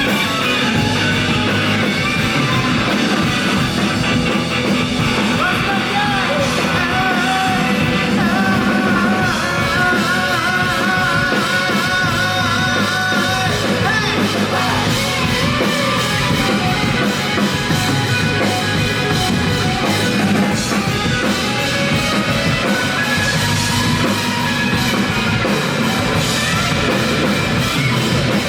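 Rock band playing live, loud and continuous, with drum kit and wavering melodic lines over a dense full-band sound.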